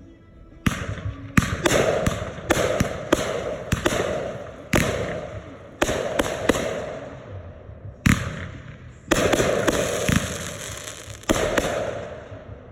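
Fireworks going off in a rapid, uneven series of sharp bangs, about fifteen in all. Each bang is followed by a fading crackle.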